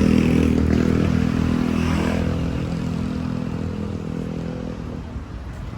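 A motorcycle engine running steadily and gradually fading away, its higher tones dropping out near the end.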